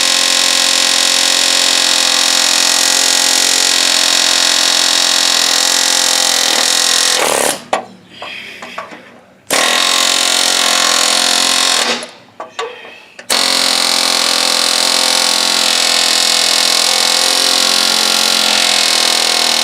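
Pneumatic air chisel hammering into the aluminium mounting lugs of a Briggs & Stratton lawnmower engine, cutting the bolt holes out to free seized mounting bolts. It runs very loud in three trigger-held bursts, each starting and stopping abruptly: a long one of about seven seconds, a short one of about two seconds, then another of about six seconds.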